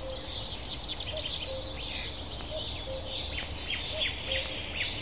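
Small birds chirping: quick runs of high twittering notes and short falling chirps, with a faint low note repeating about once a second underneath.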